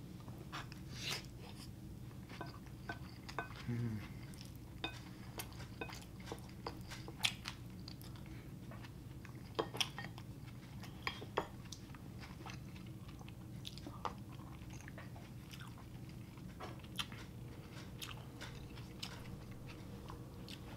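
Close-miked chewing of a mouthful of beef and rice, with soft wet mouth clicks and smacks scattered throughout and a brief low hum about four seconds in.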